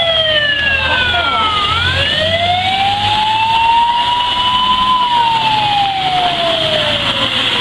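Fire truck siren on a slow wail: the pitch falls about two seconds in, rises for about three seconds, then falls again toward the end. Under it runs a low engine rumble and a steady hiss.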